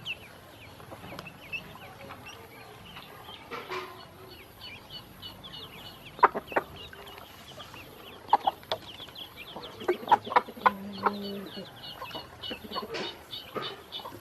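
A group of black and yellow ducklings peeping in quick, continuous high chirps. Sharp taps sound now and then in the second half, and there is a brief lower call a little past the middle.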